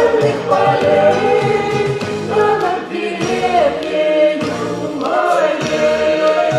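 Music: the final refrain of a Russian song, voices singing long, drawn-out notes over instrumental accompaniment.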